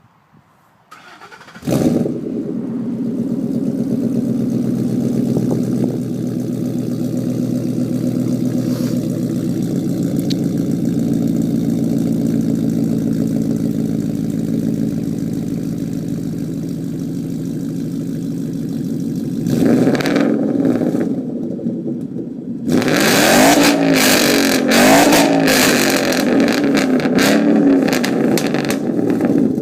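2012 Ford Mustang GT's 5.0-litre Coyote V8, fitted with a Roush exhaust and off-road H-pipe, starting up: a brief crank, then it catches with a flare about two seconds in and settles into a steady idle. Near twenty seconds in it is revved once briefly, and over the last seven seconds it is revved again and again, the pitch rising and falling each time.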